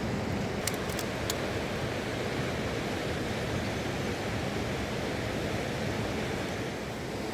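Steady rushing of a mountain river, an even noise without pauses, with a few small clicks about a second in.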